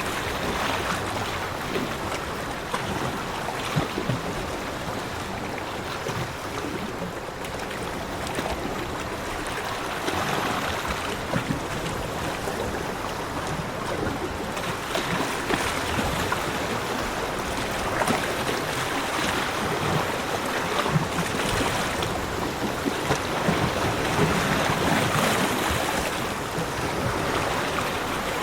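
Sea waves washing onto a beach: a continuous surf hiss that swells and eases every few seconds.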